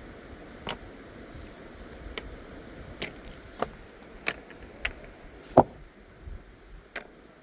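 Sharp knocks or clacks, about eight at uneven intervals, the loudest about five and a half seconds in, over steady background noise.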